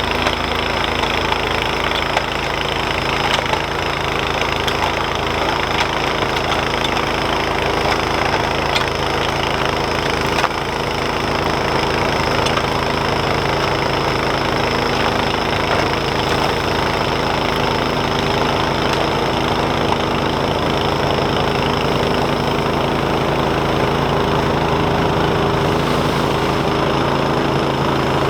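Snowblower's small gas engine running steadily, with a few light clicks over it.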